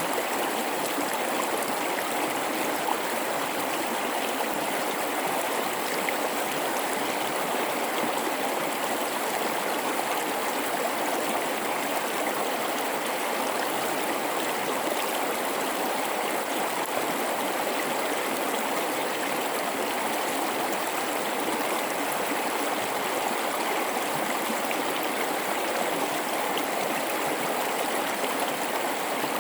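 River water rushing over rocks in a gorge: a steady, even flow with no change.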